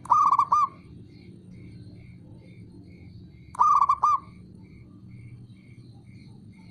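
Zebra dove (perkutut) cooing: two short phrases of about four quick, ringing notes each, one right at the start and another about three and a half seconds in.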